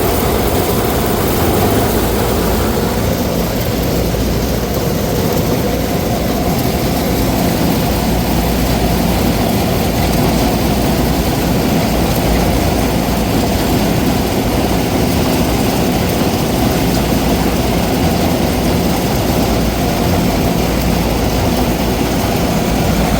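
A heavy engine running steadily at a constant speed, with no change in pitch or level.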